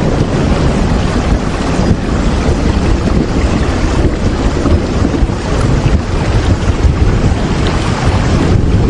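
Steady, heavy rain falling without a break, a dense hiss with a deep rumble underneath.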